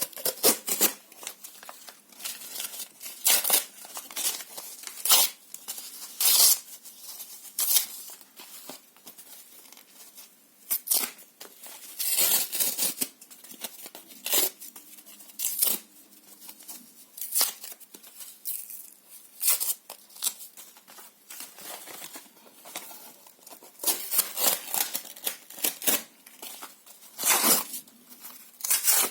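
Paper and cardboard being torn by hand in short irregular rips, with crinkling between them.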